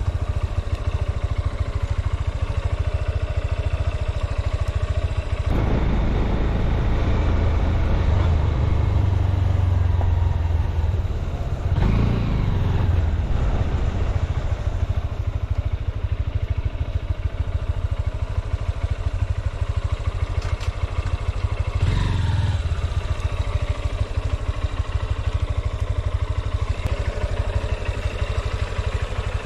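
Motorcycle engine running steadily, its pitch rising and falling a few times as the throttle changes, about six, twelve and twenty-two seconds in.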